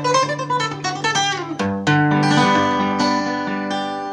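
Guitar played fingerstyle: a quick run of plucked notes over a held bass, then, about a second and a half in, an arpeggio whose notes are left ringing together.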